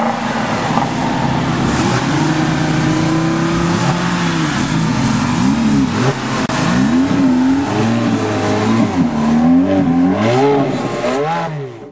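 Sports car engine revving: it holds one rev for a couple of seconds, then blips up and down several times in quick succession, and cuts off abruptly near the end.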